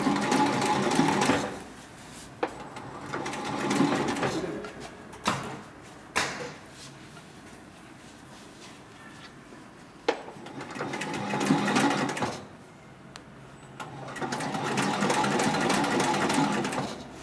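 HIGHTEX 7204-MD heavy-duty ornamental-stitch industrial sewing machine stitching leather in four short runs of one to three seconds each, with sharp single clicks in the pauses between runs.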